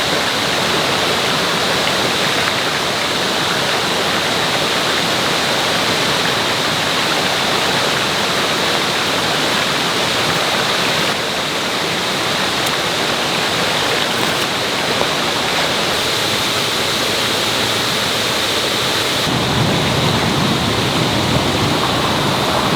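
Mountain stream rushing over rocks: a loud, steady rush of water. The sound shifts slightly about halfway through, and near the end it takes on a deeper rumble.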